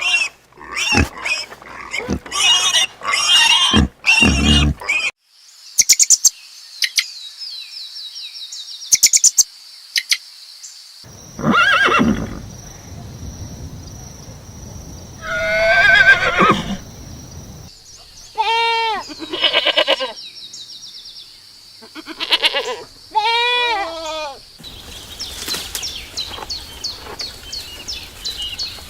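A sequence of different farm animal calls, one kind after another, including runs of short repeated calls.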